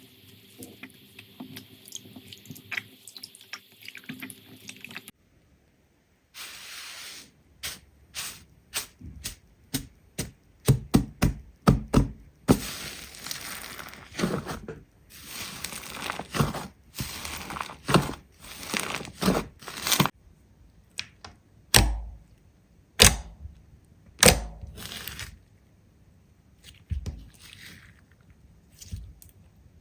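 Slime being squeezed and pressed by hand, making irregular wet pops, clicks and crackles. Faint crackling over a low hum gives way after a short break to louder, sharper pops and squelches.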